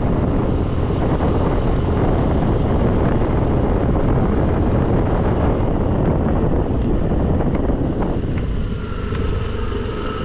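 Wind rushing over the microphone of a scooter rider on the move, with the scooter's engine and road noise beneath. About eight seconds in the wind drops and a steady engine hum with a thin whine comes through as the scooter slows.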